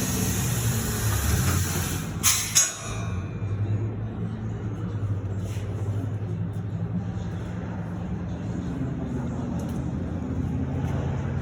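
Dodge Challenger Hellcat's supercharged 6.2-litre Hemi V8 idling steadily with its mid mufflers deleted. Over it, a loud hiss of air cuts off sharply with a couple of clacks about two and a half seconds in.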